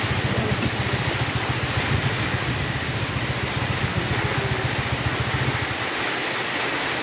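Heavy rain making a steady, loud hiss, with a low rumble underneath that fades away about five and a half seconds in.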